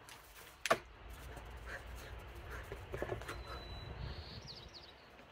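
A sharp click less than a second in, then scattered soft knocks and a low rumble, with a bird giving a few quick rising chirps near the end.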